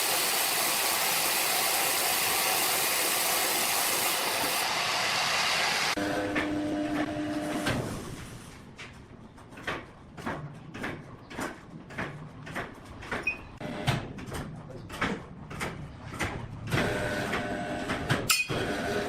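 Sawmill machinery: a steady, loud running noise that cuts off sharply about six seconds in. A brief humming tone follows, then a run of irregular knocks and clanks, roughly one or two a second. The machine sound returns near the end.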